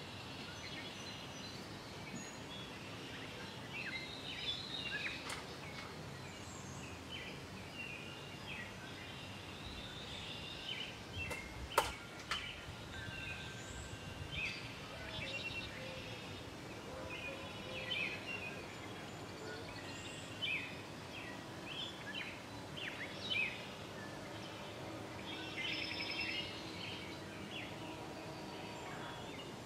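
Birds chirping and calling again and again, over a steady hiss of outdoor background noise, with one sharp click about twelve seconds in.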